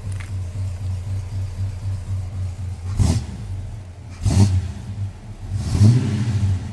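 Oldsmobile Rocket 455 V8 idling through a new dual exhaust with a steady low rumble, blipped three times, at about three seconds, just past four seconds and near six seconds, the last rev the longest and loudest.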